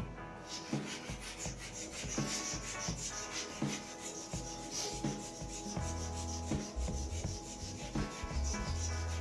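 Sandpaper rubbing steadily along the wooden shaft of a snooker cue, a continuous hissing scrape.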